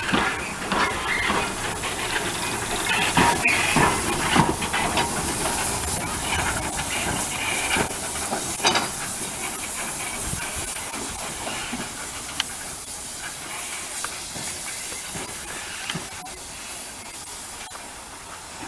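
Steam locomotive hissing steam, with scattered metallic knocks, the hiss easing off toward the end.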